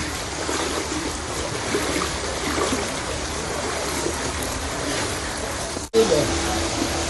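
Floodwater rushing and splashing, a steady noisy wash. It breaks off abruptly about six seconds in, and a steady hum follows.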